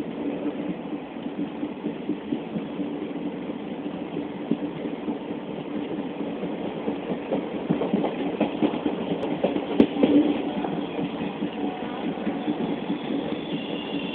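Running noise of a passenger express train heard from aboard: a steady rumble of wheels on rail, broken by irregular clicks and clanks as the coaches pass over rail joints. There is a louder clank about ten seconds in.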